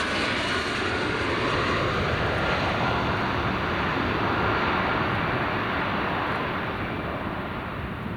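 Airliner engines running loudly as the aircraft passes close by near the airport, a steady roar with a faint whine that begins to fade about six and a half seconds in.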